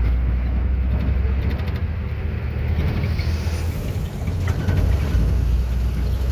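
An 18-wheeler truck running on the road, a steady low drone of engine and road noise.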